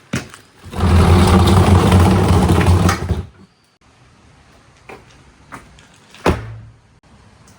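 Marbles running through a marble run: a loud rolling rumble from about one second in to about three seconds, then a few single sharp clacks of marbles hitting the track, the loudest a little past six seconds.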